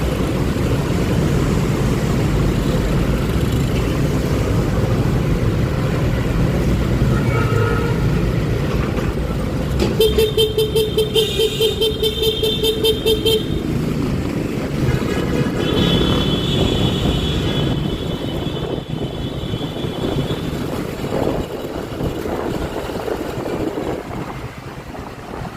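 Motor scooter riding in city traffic: steady engine and road noise, with a vehicle horn tooted in a rapid string of short beeps for about three seconds about ten seconds in. A few seconds later, a thinner, higher-pitched tone sounds for several seconds.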